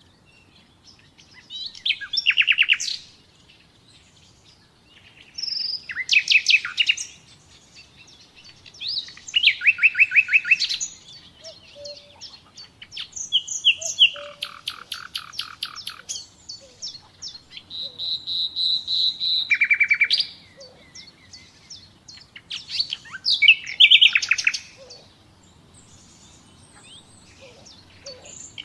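Common nightingale singing: separate phrases a few seconds long with pauses between them, made of fast runs of repeated notes, with one held pure whistle midway through.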